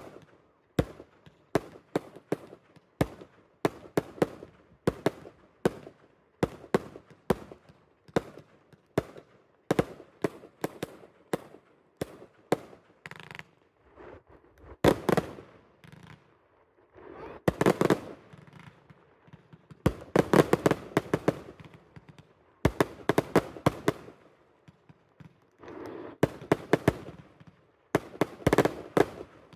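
Fireworks going off: a steady run of sharp bangs, about two a second. From about halfway through, these give way to clusters of rapid crackling bursts with short pauses between them.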